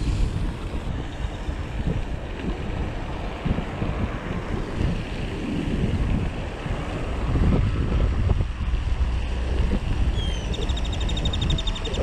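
Wind buffeting the microphone: an uneven, gusty low rumble that swells and drops. Near the end comes a rapid run of high, evenly spaced clicks.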